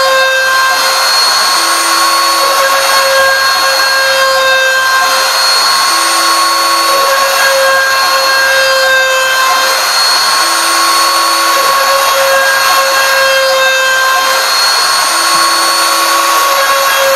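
CNC router spindle running and cutting, a steady high whine, with a lower tone from the machine coming and going every four to five seconds as it moves through its passes.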